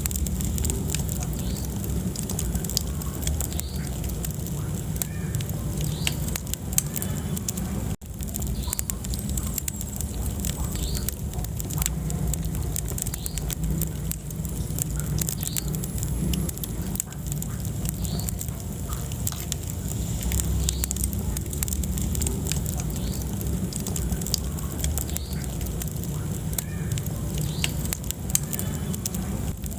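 Wood fire burning in a fireplace: frequent small crackles and pops of burning logs over a steady low rumble of flames.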